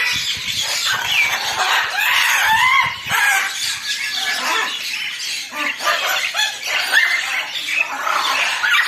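Many birds calling over one another, with short rising and falling calls overlapping, and some dull thumps during the first few seconds.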